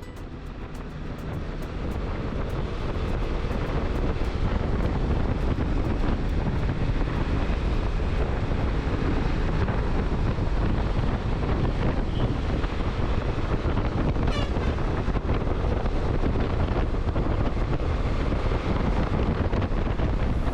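Motorcycle riding at speed, heard as a steady rush of wind buffeting the microphone over the engine and road noise. It fades up over the first couple of seconds, then holds steady.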